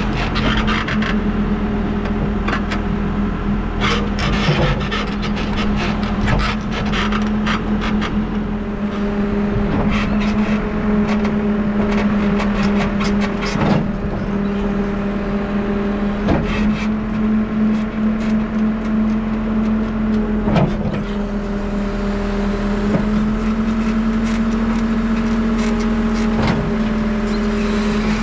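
New Holland backhoe loader's diesel engine running steadily at working revs, with scattered knocks and scrapes from the bucket digging through clay and stones.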